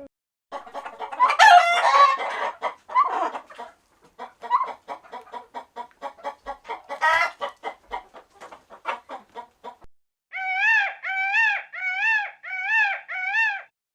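Chickens clucking, with a loud rooster-like crowing call near the start, then a long run of quick, repeated clucks. Near the end come five evenly spaced calls that rise and fall in pitch.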